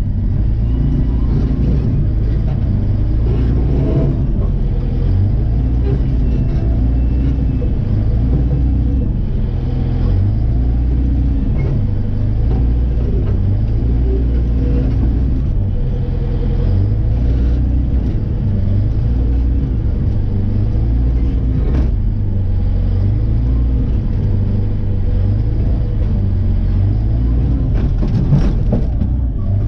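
Caterpillar D5 wide-track bulldozer's diesel engine running hard under load as the machine works its way back over a log, a steady low drone that rises and falls a little, with a sharp knock near the end.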